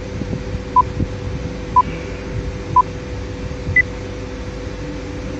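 Countdown timer beeping once a second at one pitch, then a single higher-pitched beep marking zero, over a steady hum.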